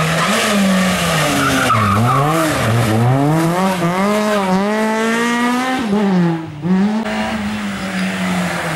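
Rally car engine driven hard, its pitch climbing and falling again and again with throttle and gear changes, with tyre noise. Just after six seconds in the revs drop off sharply and the sound briefly dips, then the engine holds a steadier note.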